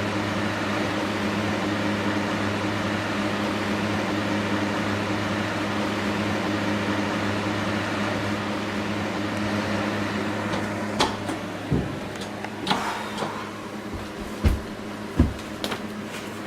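Electric box fan running steadily with a whirr and a low motor hum. In the last five seconds the whirr eases a little and several sharp knocks and clicks sound.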